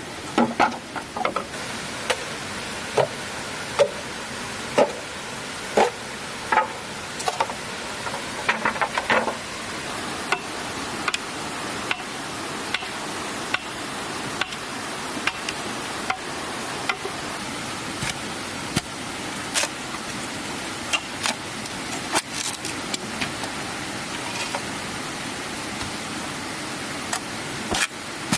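Repeated sharp knocks, about one a second for the first ten seconds, then only occasional clicks over a steady rushing noise.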